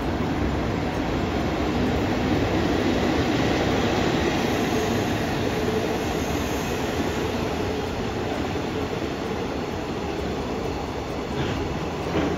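A train running on the rails: a steady rumble of wheels, slightly louder in the first half, with a couple of sharp clicks near the end.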